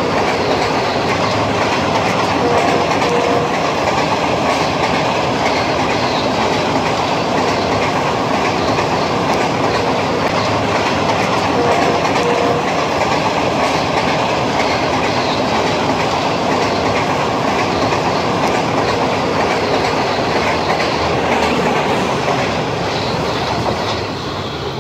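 Pakistan Railways passenger coaches rolling past on the track: steady, loud noise of wheels on rails, starting to fade near the end as the last coach goes by.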